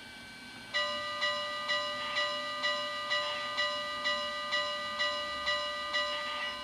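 Steam locomotive bell from an HO-scale model train's digital sound system, starting about a second in and ringing steadily about twice a second.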